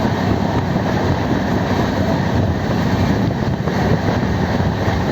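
Purnagiri Jan Shatabdi Express train running along the track: a steady, loud rumble of wheels and carriages.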